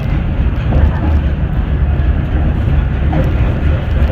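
Vintage IRT Low-Voltage subway train running along the track, a steady low rumble.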